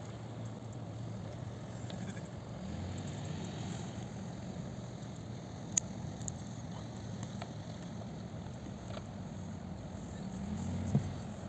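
A steady low motor rumble with two sharp clicks, one about halfway through and one near the end.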